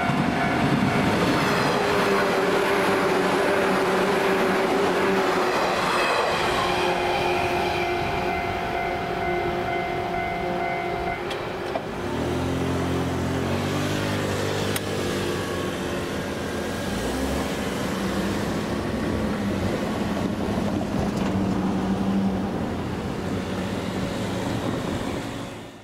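A 117-series electric train, the 'WEST EXPRESS Ginga', rushes past at speed while a level crossing bell rings steadily; the bell stops abruptly about eleven seconds in. After that comes quieter background noise, with a brief run of low stepped tones shortly after the bell stops.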